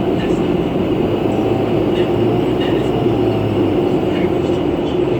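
Interior running noise of a 2011 New Flyer C40LF city bus under way: a steady drone with a humming tone, and light rattles now and then.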